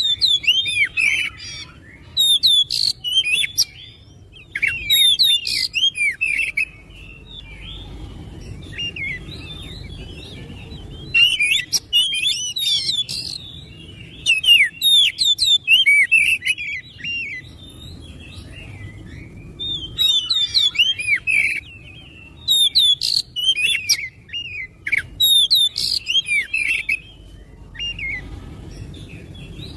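Oriental magpie-robin singing in loud bursts of rapid, sweeping, varied notes, each burst a second or two long with short pauses between, over a low steady hum.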